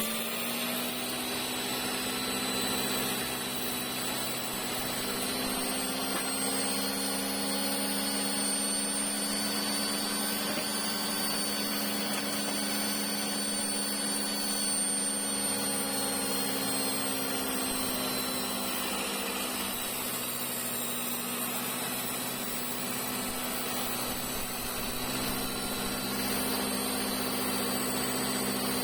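Electric power tool's motor running steadily at full speed, its whine wavering slightly in pitch as it works the wood.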